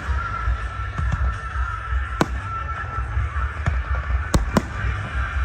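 Aerial fireworks bursting: a string of sharp bangs, the loudest about two seconds in and a pair in quick succession past four seconds, over a continuous deep rumble.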